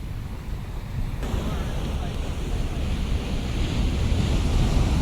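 Ocean surf breaking and washing ashore, a low rumble with a whitewater hiss that grows suddenly louder about a second in, with wind buffeting the microphone.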